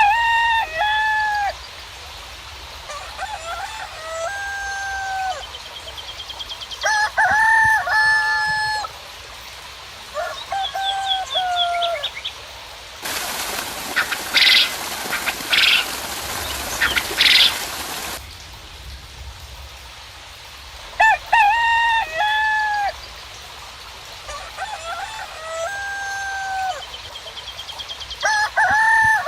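Roosters crowing again and again in short calls, with small birds chirping faintly. Midway a hissing noise rises for about five seconds, with three loud, sharp sounds in it, then stops suddenly.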